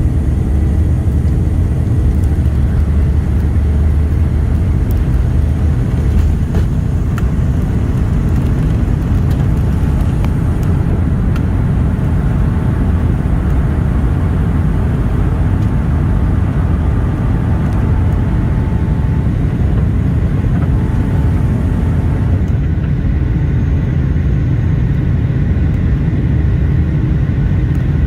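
Boeing 757-200 jet engines during takeoff, heard from inside the passenger cabin as a steady, loud, deep rumble with a faint hiss above it.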